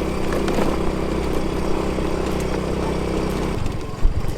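Motor scooter engine idling steadily, its note changing about three and a half seconds in.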